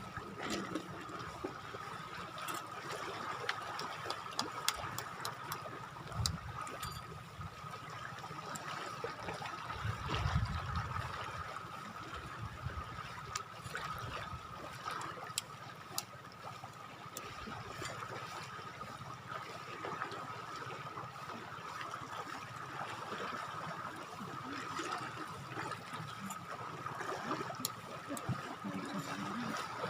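Shoreline water trickling and lapping, an even wash of noise with small scattered clicks. A steady thin tone sits over it.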